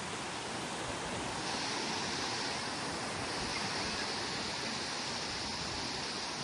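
Sea waves breaking and washing up the beach: a steady rushing surf that swells slightly, with a brighter hiss coming in about a second and a half in.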